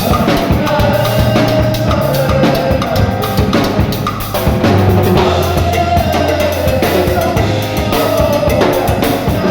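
Band music with a drum kit playing a steady beat over a bass line of held low notes that changes every second or so.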